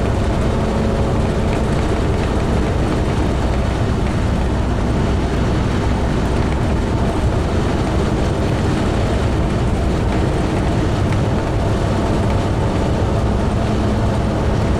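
Class A motorhome driving on the highway: steady engine and road noise inside the cab, with a low drone that holds even throughout.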